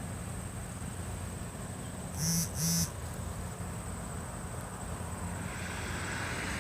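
Outdoor ambience: a steady low rumble under a thin, steady high whine. A little over two seconds in come two short pitched beeps in quick succession, the loudest sound. A soft hiss swells near the end.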